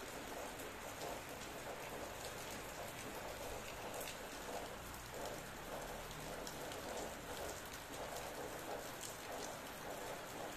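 Steady rain falling, with many individual drops ticking sharply throughout.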